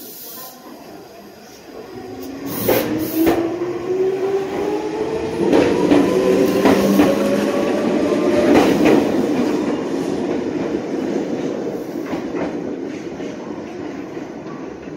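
Meitetsu electric train running through the station, its motor whine rising steadily in pitch as it speeds up, with sharp clacks as the wheels cross rail joints. It grows loud about two seconds in and then slowly fades.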